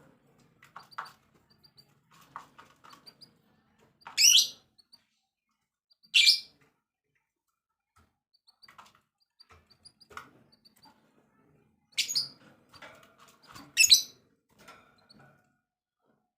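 Songbird calling: four loud, short, raspy calls, about 4, 6, 12 and 14 seconds in, with soft chips and brief twitters between them.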